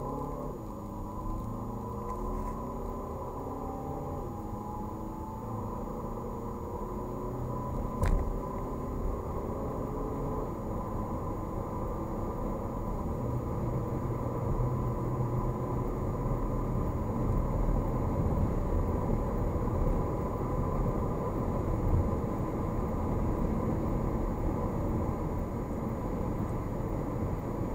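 Skoda Karoq's 1.6 TDI four-cylinder turbodiesel under full-throttle acceleration, heard from inside the cabin. The engine rises in pitch through the gears as the seven-speed DSG gearbox upshifts, while road and wind noise grows steadily louder with speed. There is one sharp click about eight seconds in.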